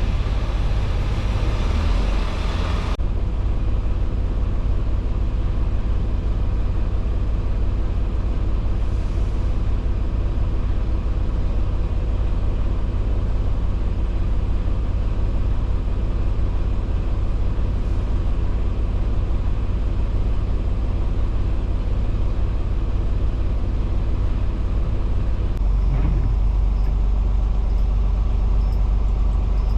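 Semi-truck diesel engine idling steadily. A broad hiss stops abruptly about three seconds in. About 26 seconds in there is a click, and the low engine rumble gets louder.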